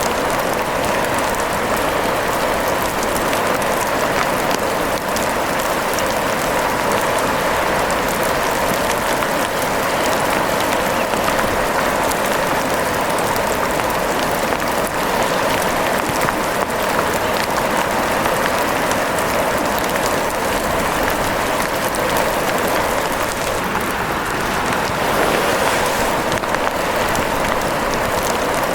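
Steady rain falling: an even hiss dotted with fine drop ticks, holding the same level throughout.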